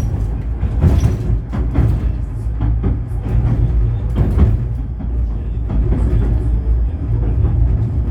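Running noise of a 71-911EM "Lvyonok-M" tram in motion: a steady low rumble with irregular knocks and clatters.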